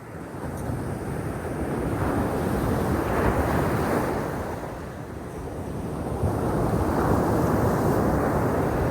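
Sea waves breaking and washing on the shore, the surf swelling and easing twice: once around three seconds in and again through the last few seconds.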